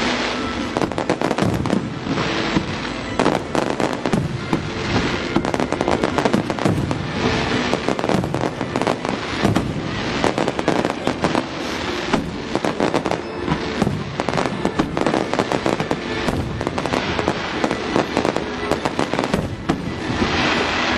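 Fireworks display: many shells bursting in quick, irregular succession, overlapping bangs and dense crackling with no pause.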